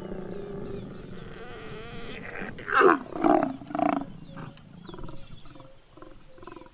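Big cats growling during mating. A low, drawn-out growl gives way to three loud roars about three seconds in, then a run of shorter grunts, about two a second, that grow fainter.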